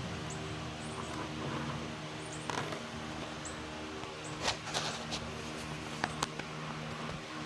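Recirculating pump of a homemade engine-flushing rig running with a steady hum, pushing an acetone and ATF solvent through a sludged engine and out the oil drain. A few sharp clicks and knocks come midway.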